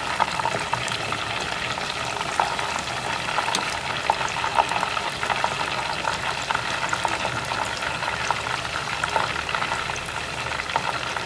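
Coated chicken pieces deep-frying in hot oil: a steady sizzle with frequent crackles and a few louder pops.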